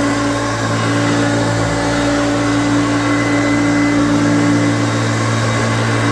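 1989 Hoover Concept 1 upright vacuum cleaner running steadily on normal power, its motor at full speed with a steady hum. The motor sounds kind of grumbly, which the owner puts down to age.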